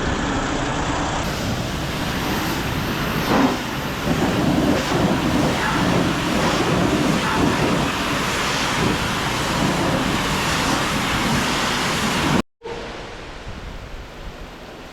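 Heavy rain falling on a truck cab, a dense steady hiss. It cuts out for an instant near the end and comes back quieter.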